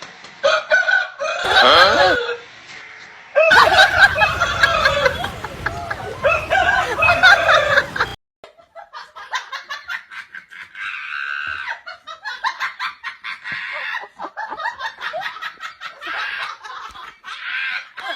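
Loud bird calls with gliding pitch, in squawks. After a sudden cut about eight seconds in, quieter rapid short calls follow.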